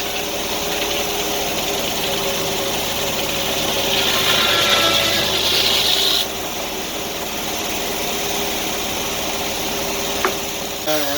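Sawmill engine running steadily while its blade cuts through a log, with a loud hiss of cutting that stops suddenly about six seconds in. A single sharp click comes near the end.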